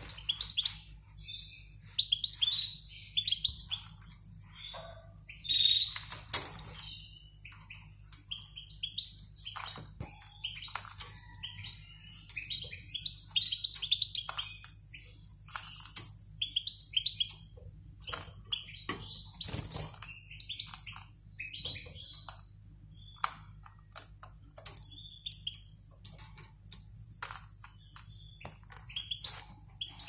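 Small cage birds chirping: many short, high cheeps and twitters in clusters, loudest about six seconds in, with scattered clicks over a low steady hum.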